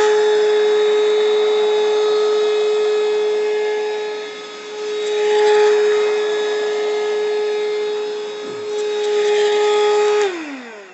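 Small cordless handheld UV bed vacuum running with a steady whine, its sound swelling twice. Near the end it is switched off and the motor winds down, falling in pitch.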